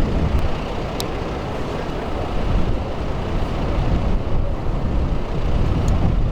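Steady low rumble of a motor vehicle running, with two light clicks, one about a second in and one near the end.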